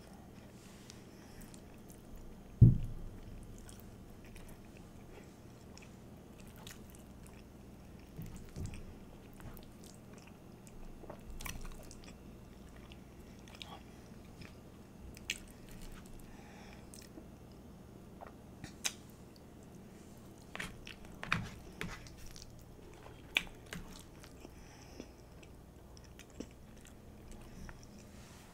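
Close-miked chewing and biting of a person eating chili cheese fries, with scattered sharp clicks throughout. A single heavy low thump about two and a half seconds in is the loudest sound.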